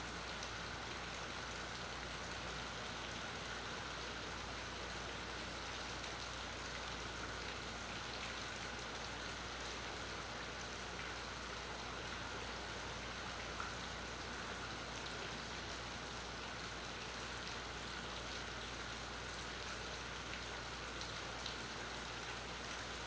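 Steady rain falling on the marina's water and docks, an even hiss with two brief louder ticks, one about halfway through and one near the end.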